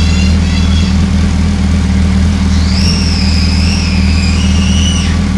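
Yamaha R1 motorcycle's inline-four engine idling steadily. A high, wavering whistle-like tone sounds over it for about two and a half seconds in the second half.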